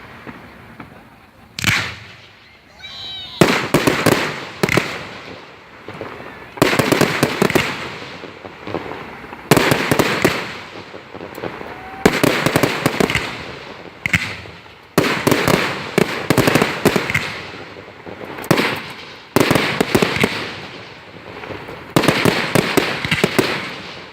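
Fireworks going off in quick succession: a sharp bang about two seconds in, a brief whistle, then bursts every second or two, each followed by a long crackling tail.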